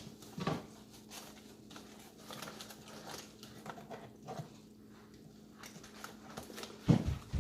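Scattered light knocks and clatters of objects being handled on a table, with a louder pair of thumps near the end, over a faint steady hum.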